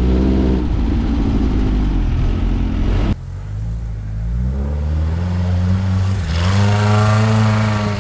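Dune buggy's 1600cc Volkswagen air-cooled flat-four engine running under way. About three seconds in, the sound changes abruptly and the engine revs up with a rising pitch, dips briefly around six seconds, then holds at a higher pitch.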